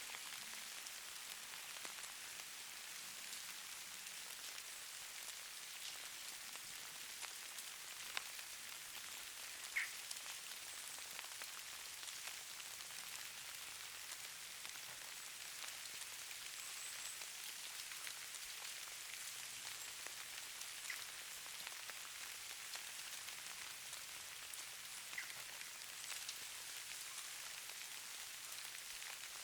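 Falling precipitation, snow or rain, pattering on surfaces: a faint, steady high hiss with scattered light ticks, and one sharper tick about ten seconds in.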